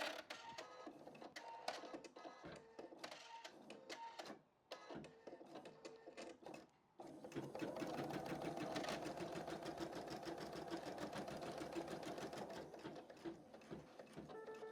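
Computer embroidery machine stitching. For the first half it is irregular clicking, broken by two brief pauses. From about seven seconds in it settles into steady, rapid stitching.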